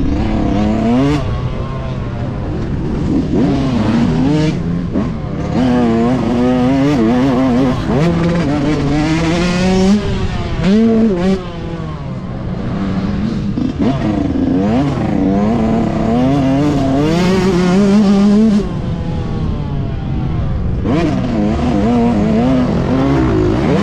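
Yamaha YZ125's 125cc two-stroke single, heard on board, revving hard on a motocross track: its pitch climbs and drops again and again as the throttle is opened and shut through shifts, with a short lull about halfway through.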